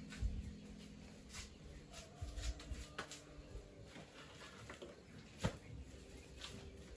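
Scattered light knocks and taps, with one sharper knock about five and a half seconds in.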